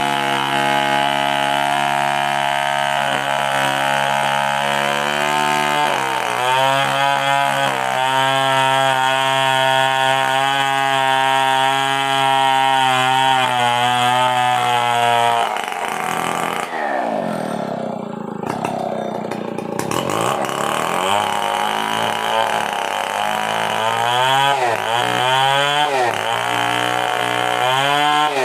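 Stihl 070 two-stroke chainsaw running at a steady high speed under load while ripping a coconut log. About halfway through the revs drop away and waver, then rise and fall repeatedly toward the end.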